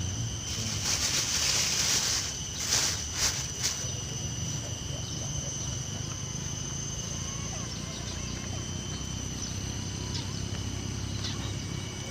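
Insects calling in a steady, high, unbroken drone. About a second in there is a short rustling rush, followed by a few sharp clicks or knocks around three seconds.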